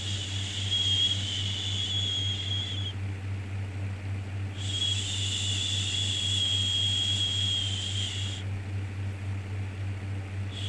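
Repeated long 'shhh' shushing sound for soothing a baby, each shush lasting about four seconds with a pause of a second or so between, over a steady low hum. One shush ends about three seconds in, a second runs through the middle, and a third starts near the end.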